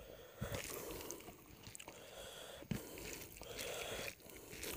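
Close-up eating sounds: a man chewing a mouthful of rice and chicken curry, with a few sharp clicks among the uneven chewing noise.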